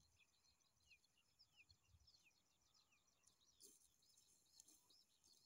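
Near silence, with faint, rapid high chirps from small birds in the distance.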